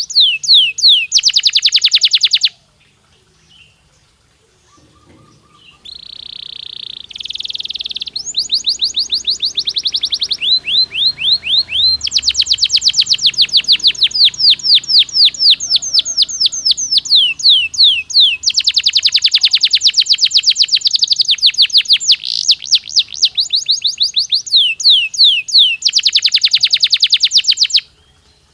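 Domestic canary singing: long, fast trills of repeated down-slurred notes, with a pause about two and a half seconds in and a short buzzy phrase before the trills resume, stopping just before the end.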